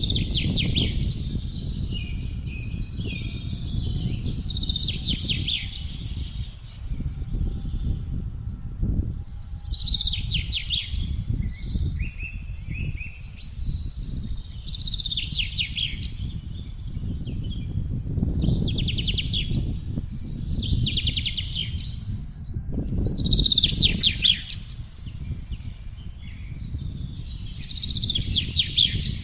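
Songbirds singing short, trilled phrases every couple of seconds over wind blowing with a steady low rumble.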